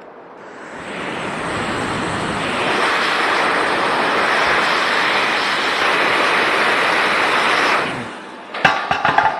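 Hot air rework station blowing a steady hiss of air, building up over the first couple of seconds and then cut off, as used to heat and lift or reball a phone's PM 7325 power IC. Near the end come a few sharp metallic clicks and clinks of tools on the board.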